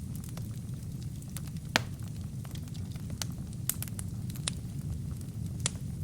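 Wood fire burning in a fireplace: a steady low rumble of flames with irregular sharp crackles and pops, the loudest pop about two seconds in.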